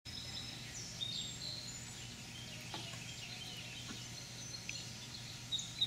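Faint outdoor ambience: scattered short bird chirps and whistles over a low steady hum.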